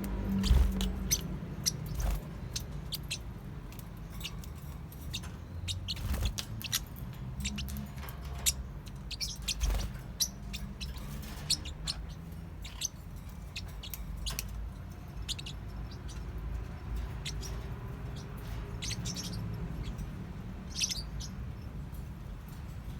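Forpus parrotlets giving short, high chirps at irregular intervals, mixed with scattered clicks and knocks, over a low steady hum.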